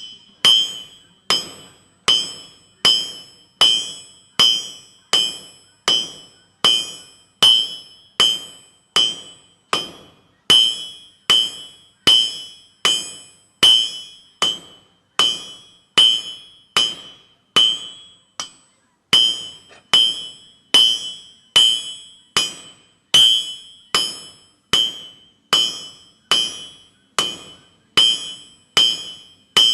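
Blacksmith's hammer striking hot steel bar stock on an anvil at about two blows a second, each blow ringing with a clear metallic tone, as the bar is drawn out and rounded down. There is a brief pause just past the middle.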